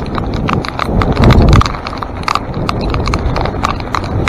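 Mountain bike running down a rough, wet trail: a fast, irregular clatter of knocks and rattles from the tyres, chain and frame over rocks and roots, over a low rumble that swells about a second in.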